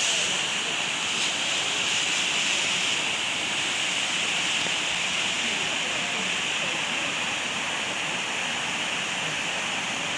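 Steady forest ambience: an even, unbroken hiss that holds its level throughout.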